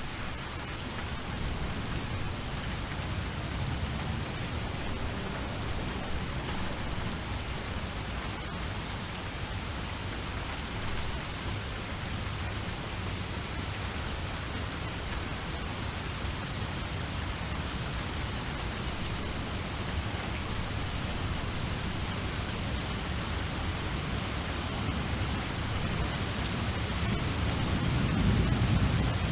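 Steady rain falling. A low rumble of thunder swells near the end.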